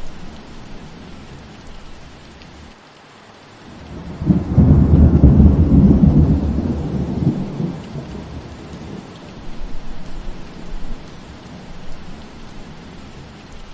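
Steady rain falling, with a deep rumble of thunder that swells about four seconds in and fades away over the next few seconds.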